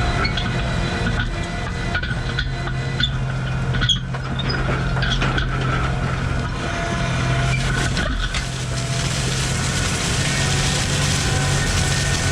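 Tractor engine running steadily, heard from inside the cab, with scattered clicks and rattles. A hiss rises and grows louder about two-thirds of the way through.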